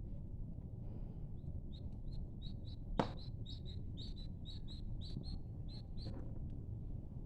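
Wood fire burning in a fireplace: irregular crackles and snaps over a low steady rumble, with one louder pop about three seconds in.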